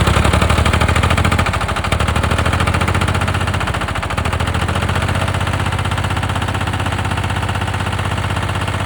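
Engine running just after starting, a rapid, even train of exhaust pulses. It settles slightly quieter about two seconds in and holds a steady idle.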